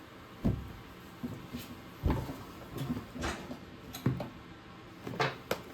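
A series of about six separate clunks and knocks, some dull thumps and some sharper metallic taps, from tools and metal being handled and knocked about.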